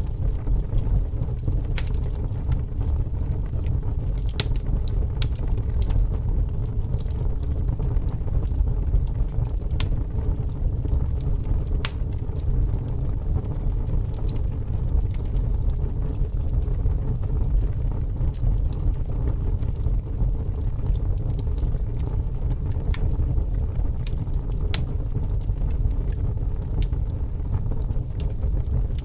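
A fire burning: a steady low rumble with scattered sharp crackles and pops at irregular intervals.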